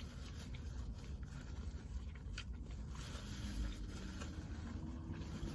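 Faint chewing and mouth sounds of a person eating, with a few small scattered clicks and rustles over a low steady hum.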